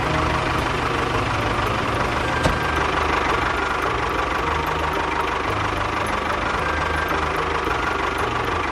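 Tractor engine running steadily with a low knocking beat, with one sharp click about two and a half seconds in.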